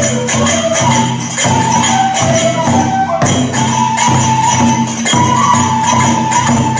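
Live kagura accompaniment: a bamboo transverse flute playing a melody of held notes over steady drumbeats and the jangle of small hand cymbals.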